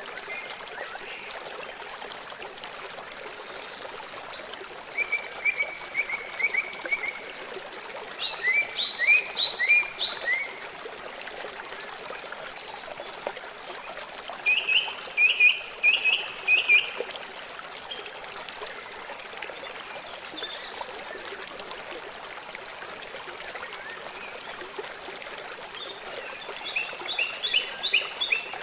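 A stream running steadily, with a songbird singing four short phrases of quick repeated notes over it.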